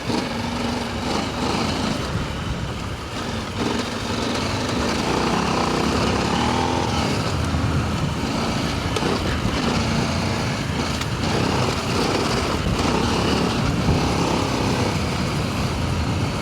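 Adventure motorcycle riding off-road: the engine runs throughout, its note rising and falling with the throttle over a steady rushing noise.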